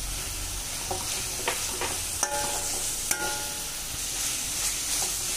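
Chicken pieces sizzling as they fry in oil in a wok, stirred with a perforated metal spatula that clicks and scrapes against the pan, twice with a brief ringing scrape. The chicken is being cooked on a medium flame until it turns white.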